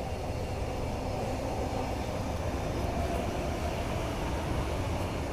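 Steady low rumble and hum inside a Tangara suburban train carriage, even throughout with no sharp events.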